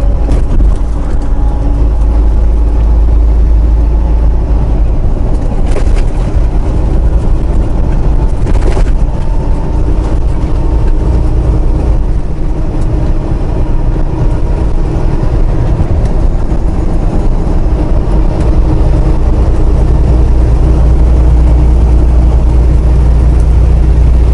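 Diesel engine of a Ryder semi truck running steadily under load, heard from inside the cab with a low road rumble, and two short noises about six and nine seconds in.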